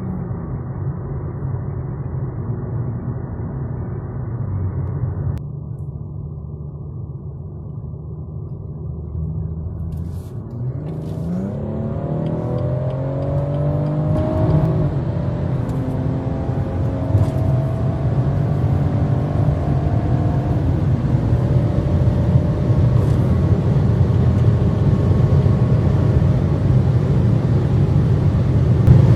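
2017 BMW M140i's 3.0-litre turbocharged straight-six, heard from inside the car, accelerating hard through the gears. After a steady drone, the engine note climbs in pitch about ten seconds in and drops back at the shifts, while road and wind noise grow steadily louder.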